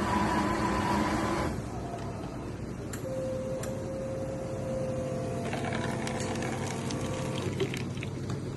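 Automatic coffee machine running after a button press: a loud steady mechanical whirr that cuts off about a second and a half in, then a quieter steady hum with a faint whine and a couple of light clicks as it keeps working.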